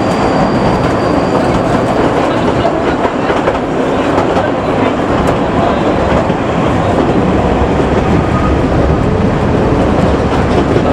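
Kurobe Gorge Railway narrow-gauge trolley train running along the track, heard from aboard the open coach: a steady, loud rumble and clatter of wheels on the rails.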